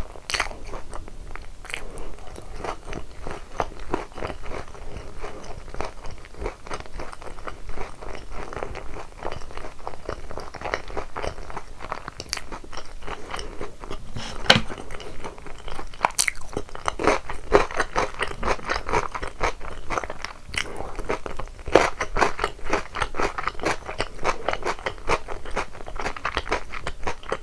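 Close-miked chewing and biting into crispy boneless fried chicken coated in sweet-and-spicy yangnyeom sauce, with dense, irregular crunching throughout.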